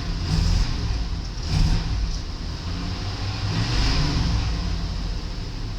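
5.7-litre V8 engine from a 1993 GM full-size station wagon running, revved up briefly three times. It runs well; the tester says it sounds good.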